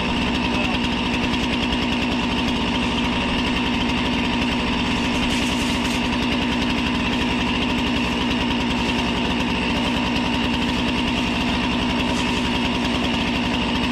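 Diesel engine of a Kubota M59 tractor-loader-backhoe running steadily at an even idle, with no change in speed.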